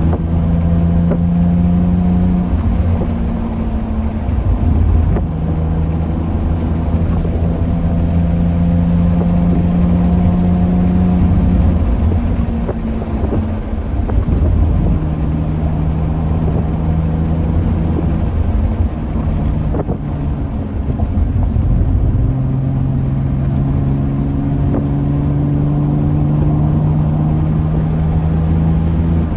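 BMW E46 engine running under way with road rumble, its note holding steady and then stepping to a new pitch several times, as with gear changes.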